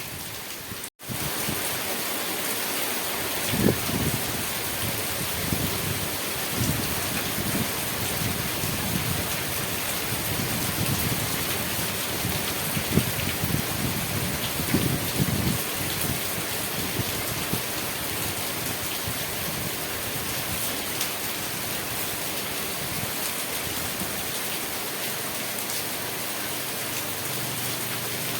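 Steady rain falling on surfaces, an even dense patter, with a few louder low knocks and thuds in the first half. The sound cuts out for an instant about a second in.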